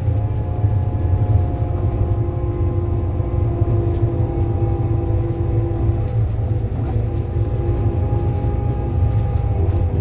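Scania K230UB city bus under way: a steady low engine rumble with whining tones from the drivetrain and its ZF Ecomat automatic gearbox. The tones break and change pitch about six seconds in.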